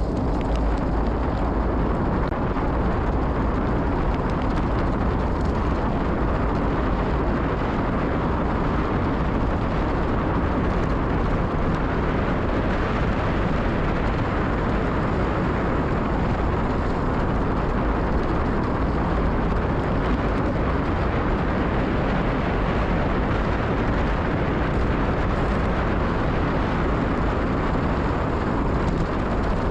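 Steady wind rumble over the microphone with tyres rolling on a gravel road, from a gravel bike on a fast dirt descent.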